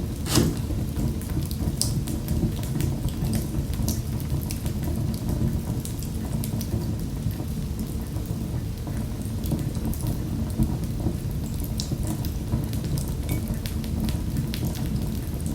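Wood fire crackling in a fireplace: a steady low rumble of the flames with irregular sharp pops and snaps, one louder pop about half a second in.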